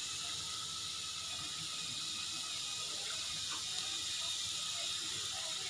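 Thin potato slices shallow-frying in oil in a non-stick pan, sizzling with a steady high hiss.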